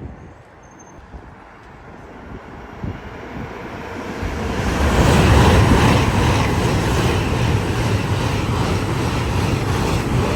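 A train approaching and passing at speed: a rushing noise that builds over the first few seconds, then stays loud as the train goes by.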